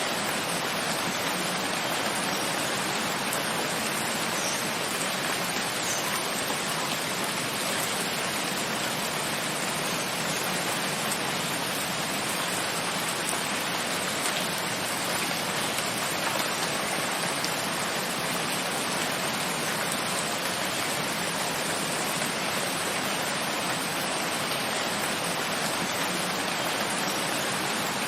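Rain falling steadily, an even hiss that holds at one level.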